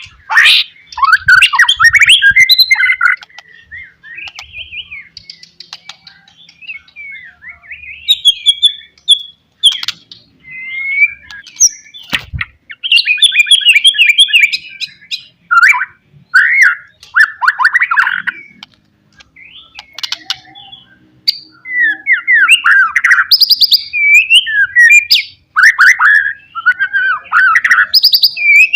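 White-rumped shama singing in bursts of fast, varied whistles and chirps, phrase after phrase with short pauses between.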